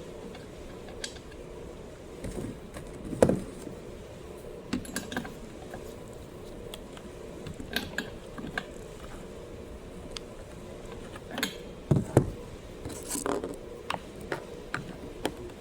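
Irregular clicks, taps and knocks of small tools and parts handled on a workbench while a spark tester is fitted to a chainsaw's spark plug and lead, over a faint steady hum.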